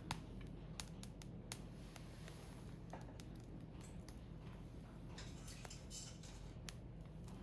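Firewood burning in a Picogrill fire pit, crackling with scattered sharp pops, the loudest just after the start.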